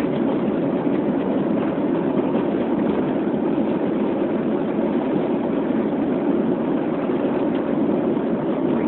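Steady road and engine noise heard from inside a moving car: an even, unbroken rumble.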